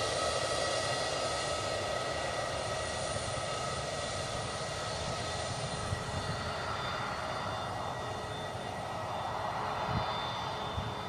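Airbus A320neo taxiing, its jet engines running at low taxi power: a steady whine of several high tones over a rush of engine noise, slowly fading.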